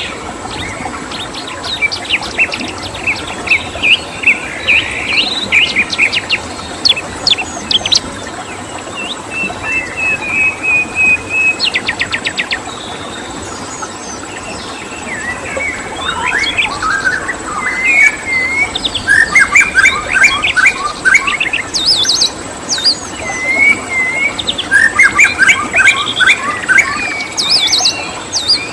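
Several songbirds chirping, whistling and trilling in overlapping phrases, over a steady background hiss and a thin continuous high-pitched tone.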